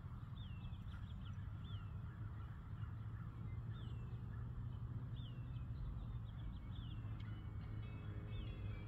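A bird calling over and over, short downward-sliding chirps every second or so, over a steady low outdoor rumble.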